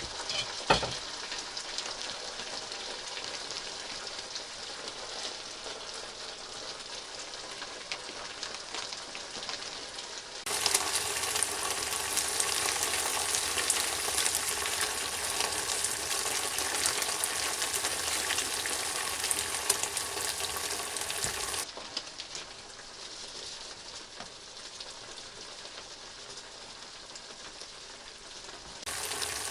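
Food frying in a pan, a steady sizzle throughout, with a sharp knock near the start. It jumps abruptly louder about a third of the way in and drops back about two-thirds in.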